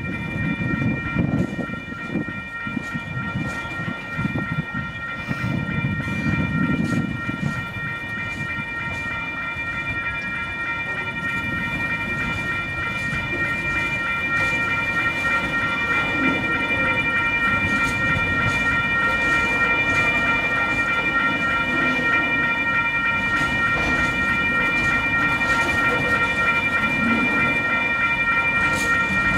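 Container wagons of a freight train rolling slowly past, their wheels rumbling and clacking on the rails, growing gradually louder. Over it, the level crossing's warning bell rings steadily.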